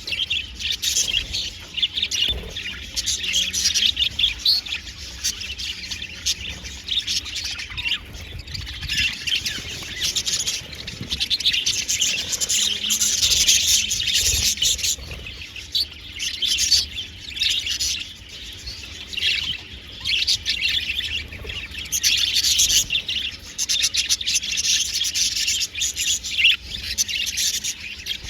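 A flock of budgerigars chattering together: many short, high chirps and warbles overlapping in a continuous, busy stream.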